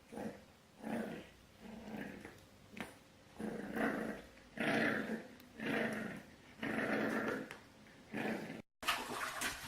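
A dog growling in a string of about ten short bursts, roughly one a second, louder and longer in the middle of the run.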